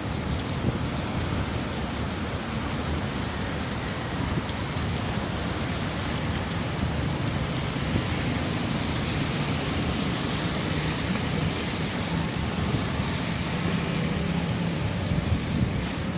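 Steady rain pouring down, with individual drops spattering close by over a continuous low rumble.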